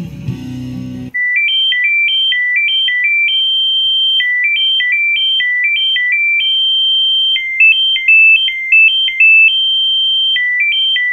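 Music cuts off about a second in and an electronic phone ringtone starts: quick high beeping notes stepping up and down, each phrase ending on a long high note, repeating about every three seconds. It signals the incoming call that has muted the music player.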